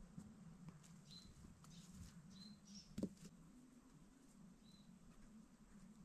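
Near silence, with a few faint, short, high bird chirps and small ticks, and one sharp knock or snap about halfway through.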